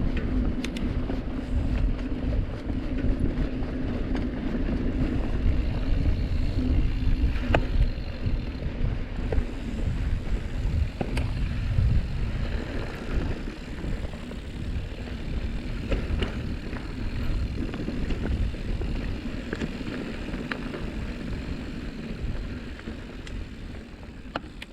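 A mountain bike riding a dusty, rocky singletrail: continuous low rumble of wind on the microphone and tyres rolling over dirt, with scattered sharp clicks and rattles from the bike. It fades out near the end.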